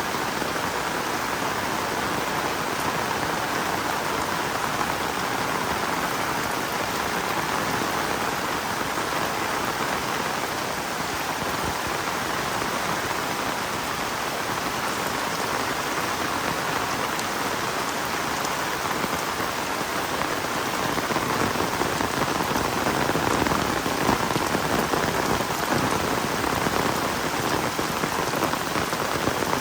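Heavy rain falling steadily in a dense, even hiss, growing a little heavier about two-thirds of the way through.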